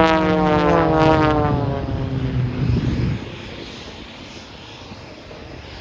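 Propeller-driven aerobatic plane, an Extra 330, passing with its engine note falling steadily in pitch as it goes by. The engine sound drops away abruptly about three seconds in, leaving only faint background noise.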